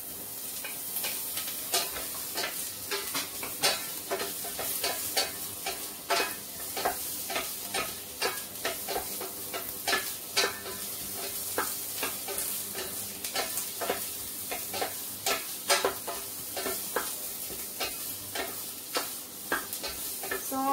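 Garlic and onions sizzling in hot olive oil in a stainless steel pan, with a steady frying hiss, while a wooden spatula stirs them, knocking and scraping against the pan many times at an uneven pace.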